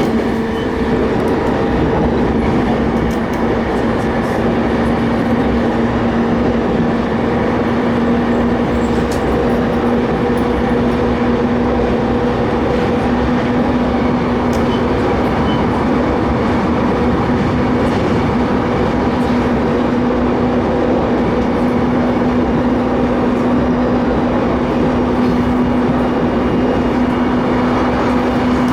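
Electric commuter train running steadily at speed, heard from inside the car: an even rail rumble with a constant motor hum.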